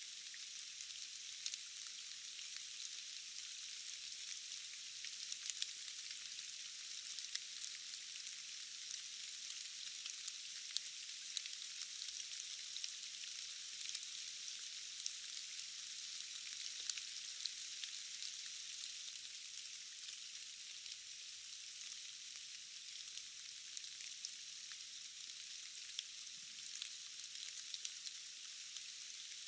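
Steady rain: an even, high hiss with many small drop ticks scattered through it.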